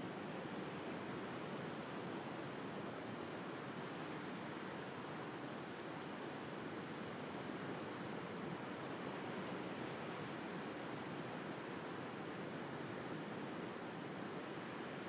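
Steady wash of sea surf, with faint, scattered crackles from a wood fire.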